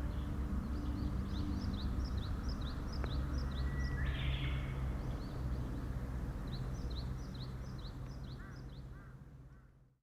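Small birds chirping over and over in short, high, downward-sliding notes, over a steady low rumble, with a brief hiss about four seconds in; the sound fades out at the end.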